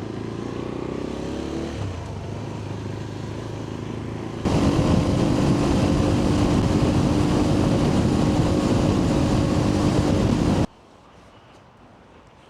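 Motorcycle engine running and pulling away, its pitch rising over the first couple of seconds. About four seconds in it turns much louder and steady, with a strong hiss over the engine. It cuts off suddenly near the end, leaving only a faint hum.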